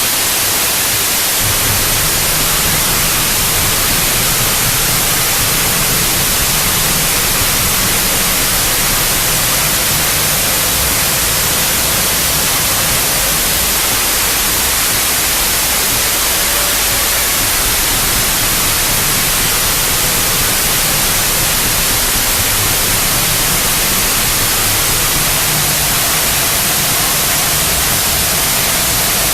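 Harsh noise music: a loud, unbroken wall of static hiss, with a wavering low rumble that comes in about a second and a half in.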